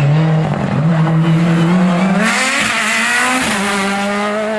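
Hill-climb race car accelerating past, engine pitch climbing and dropping back at three quick upshifts, with a loud rush of noise a little past halfway as it goes by closest.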